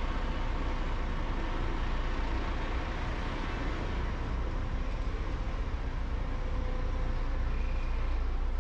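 Heavy construction machinery's diesel engine running steadily, a low rumble.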